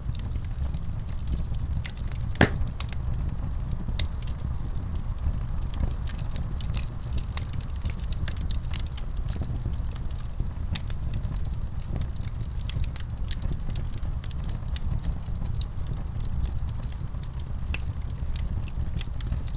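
Wood fire crackling, with a steady low rumble under many sharp pops and snaps, one louder pop about two and a half seconds in.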